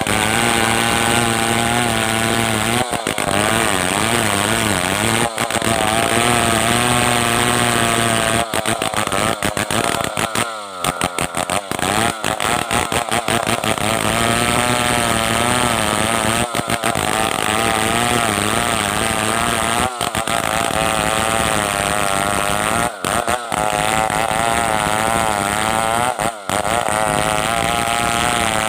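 Stihl 070 two-stroke chainsaw running at high revs while ripping a log lengthwise into planks, its engine pitch wavering as the chain works through the wood.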